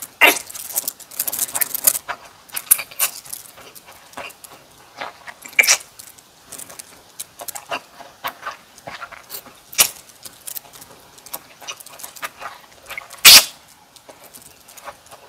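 Close-miked eating sounds: irregular crunching, wet chewing and mouth clicks of bossam and kimchi being eaten, with a dense burst of crunching at the start and one loud sharp crunch near the end.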